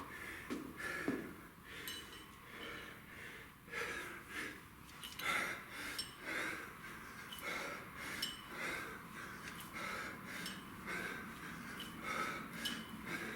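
A man breathing hard through a set of kettlebell snatches, with short, forceful breaths about once a second.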